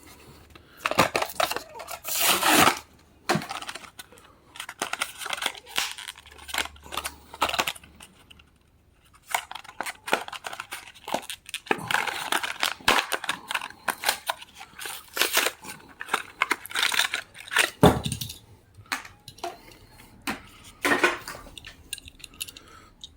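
Cardboard and plastic blister packaging of a Matchbox die-cast car being torn open by hand: irregular tearing, crinkling and clicking in short bursts, with a few sharper snaps.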